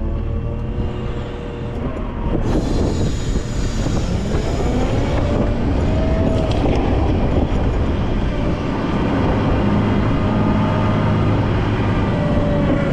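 Volvo L90F wheel loader's diesel engine running under load, with a whine that rises and falls in pitch; it gets louder about two seconds in.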